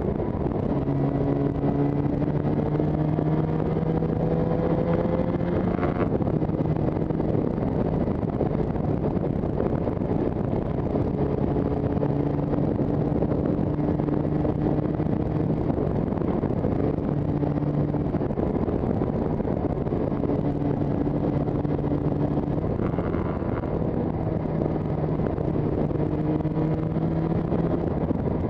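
Yamaha TZR250's two-stroke twin engine under way: its pitch climbs over the first few seconds, then runs mostly steady with several brief breaks from throttle or gear changes, and rises again near the end. Wind rushes over the microphone throughout.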